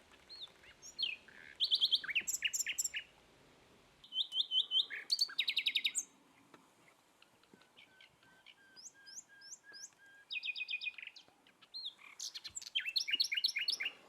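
A small bird singing: several bursts of quick, high, repeated chirping notes, separated by short pauses.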